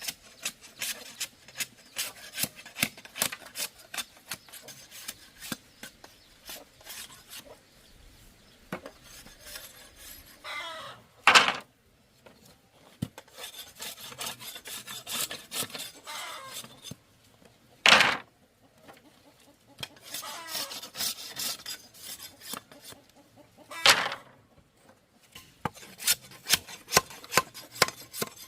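Bamboo being scraped and shaved by hand in quick repeated strokes, with three louder sharp sounds partway through.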